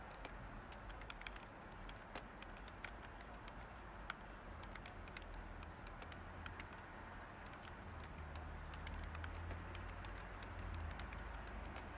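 Light typing on a computer keyboard: soft, irregular key clicks over a steady background hiss. A low hum swells up in the second half.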